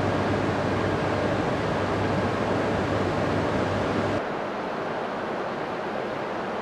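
Steady whir and low hum of a stationary E6 series Shinkansen train's onboard equipment. About four seconds in it cuts off suddenly to a quieter, thinner steady hiss of station ambience.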